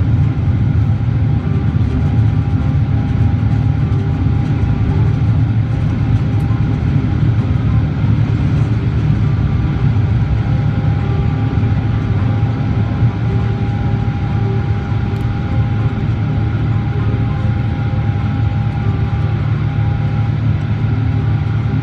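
Steady low cabin drone of a Boeing 777-300ER jet airliner, engines and airflow heard from inside the cabin, with a faint steady whine above it.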